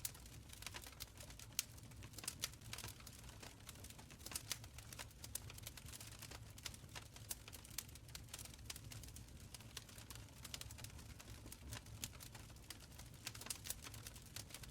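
Wood fire crackling in a stone fireplace: frequent irregular sharp pops and snaps over a soft low rumble of flames.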